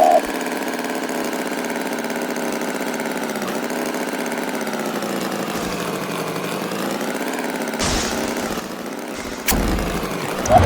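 Engine running steadily with an even drone, with a short burst of noise and a click near the end.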